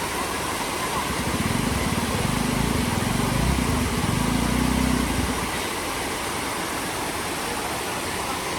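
A motor vehicle's engine running low for about four seconds, starting about a second in and fading out, over a steady rushing hiss.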